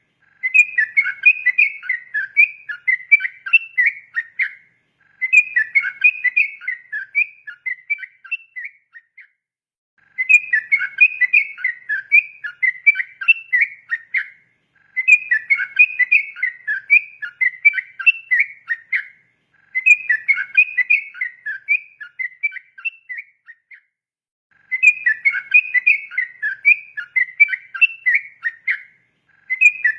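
Yellow-vented bulbul (trucukan) singing its long, rapid 'ropel' song: fast, bubbling phrases of quick whistled notes, each about four to five seconds long, with a short pause before the next. There are about six phrases.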